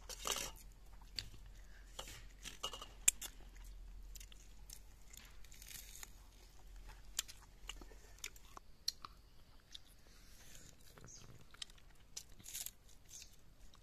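Close-up chewing and crunching of chicken curry pieces, a run of scattered short, sharp crackles and clicks.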